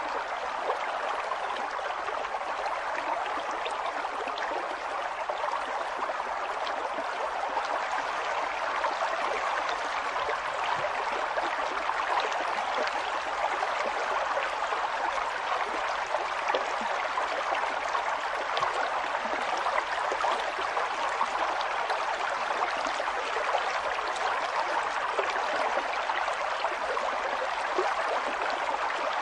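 A river flowing steadily, the water rushing and splashing with a constant rough hiss.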